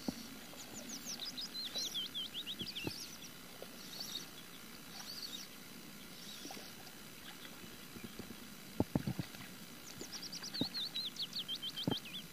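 A songbird singing two rapid phrases of quick high notes, each note sliding downward: one phrase near the start, another near the end, with fainter calls between. A cluster of sharp knocks comes about nine seconds in.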